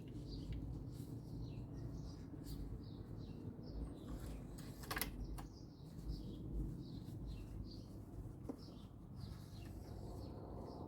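Small birds chirping repeatedly in short calls, with a single sharp click about five seconds in, over a low steady rumble.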